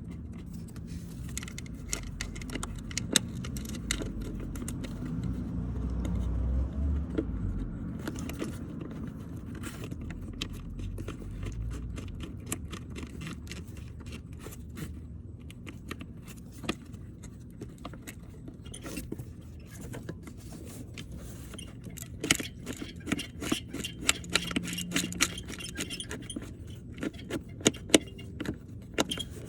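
Irregular metallic clicks and clinks of a hand tool on the two 10 mm bolts holding an ignition coil as they are tightened, with quicker runs of clicking near the end.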